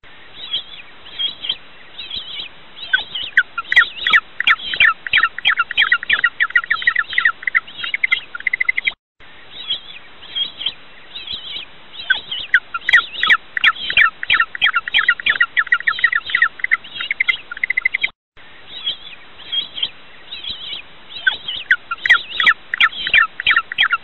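A small songbird singing: scattered chirps that quicken into a fast run of high notes, the phrase repeating about every nine seconds with brief dropouts between.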